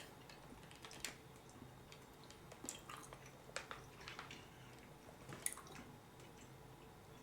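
A person chewing candy quietly: faint, scattered little clicks and smacks, a few a second apart, over a low steady hum.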